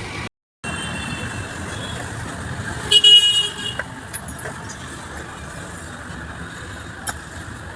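A vehicle horn honks once, briefly, about three seconds in, over steady background noise. The sound drops out for a split second right at the start.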